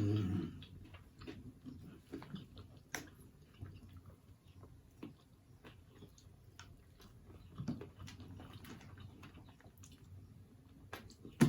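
Close-up eating sounds of a person chewing saucy fried chicken: scattered wet mouth clicks, lip smacks and chewing, with a short hum of enjoyment at the start and a sharper smack near the end.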